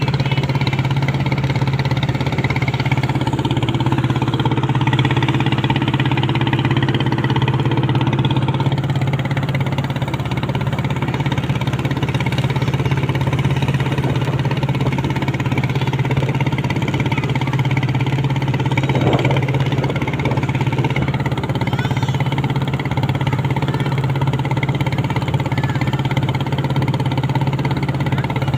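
A small boat's engine running steadily under way, a constant low hum with little change, with a brief louder rise about two-thirds of the way in.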